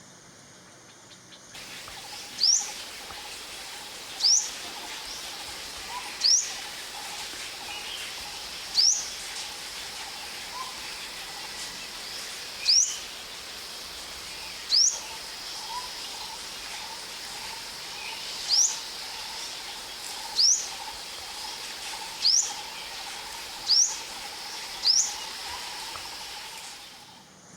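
Ornate (olive-backed) sunbird calling: a series of about eleven sharp, high, upward-sweeping 'tweet' notes, roughly one every two seconds, over steady outdoor ambience with faint lower chirping.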